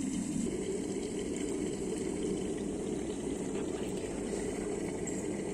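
Water at a full boil in a kettle, a steady bubbling noise.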